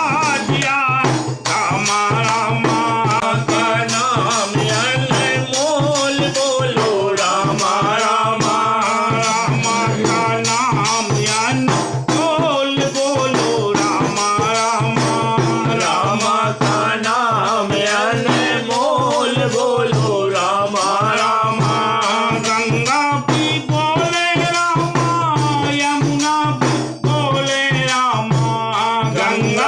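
Hindi devotional bhajan: a voice singing a melodic line over steady, rhythmic rattle percussion.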